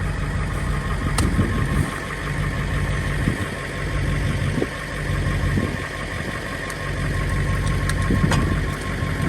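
Truck engine idling in drive, turning a Stickler screw splitter cone mounted on the rear wheel hub as it bores into a red oak log. The hum dips and swells under the load, with a sharp crack about a second in and another past eight seconds.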